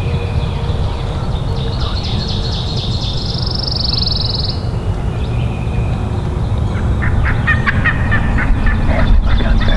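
Birds calling in the woods: a high, fast trill a few seconds in, then a rapid rattling series of call notes around seven to nine seconds in, over a steady low rumble.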